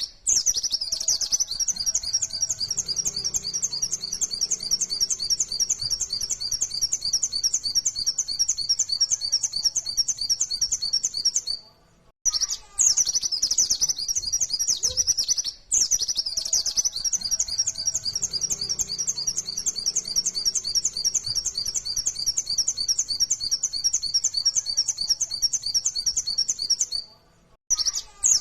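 A pleci (white-eye, Zosterops) singing long runs of rapid, repeated high chirps, the fast 'nembak' style of song. It breaks off briefly about twelve seconds in and again near the end.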